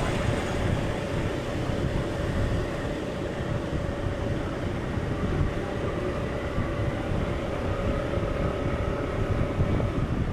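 Steady, dense low rumbling noise with a faint held tone above it that fades out near the end.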